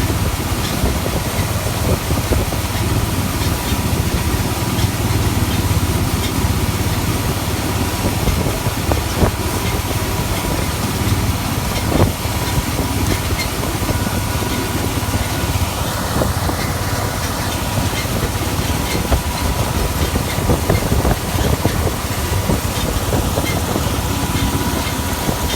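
Heavy farm machinery engine running steadily with a constant low drone and a thin steady whine above it; a single knock about twelve seconds in.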